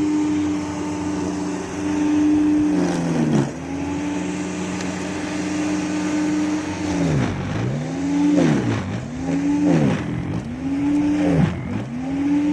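Snow blower engine running at a steady pitch, then repeatedly dipping in pitch and recovering, about once a second through the second half.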